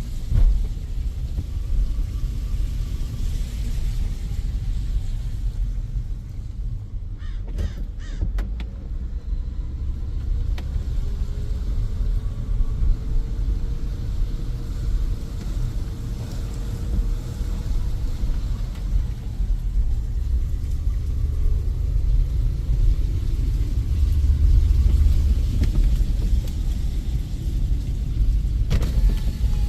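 Steady low outdoor rumble, with a few faint clicks about seven to eight seconds in.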